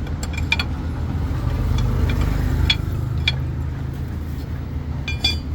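An engine idling steadily, with a handful of sharp metallic clicks over it and a quick cluster of them near the end.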